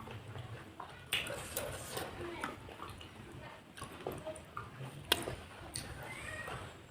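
Close-up eating sounds: chewing and slurping soft, broth-soaked crackers and enoki mushrooms in spicy soup, with a few sharp clicks about a second in and again around five seconds in.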